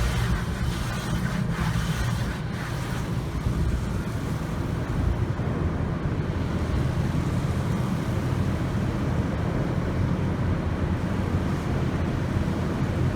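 Steady rush of water spray and low rumbling machinery in an automatic tunnel car wash.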